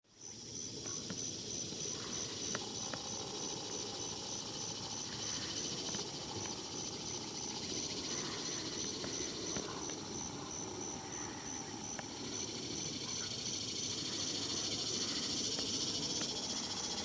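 Insects trilling in a steady, high-pitched, finely pulsing chorus, with faint outdoor ambience beneath.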